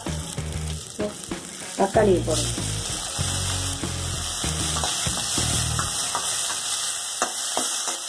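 Oil sizzling in a stainless steel kadai while onions, curry leaves and green chillies are stirred with a metal slotted spatula that scrapes and clicks against the pan. About two seconds in the sizzle turns louder and hissier as chopped tomatoes go into the hot oil.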